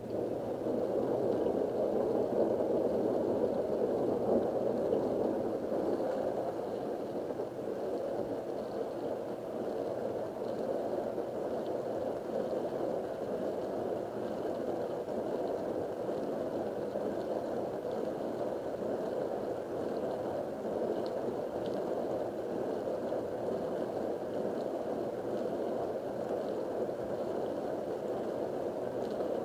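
Whirlpool-built dishwasher running its wash cycle: the circulation pump comes on suddenly and water sprays and sloshes inside the tub with a steady rushing noise, as the repaired diverter and seal are tested.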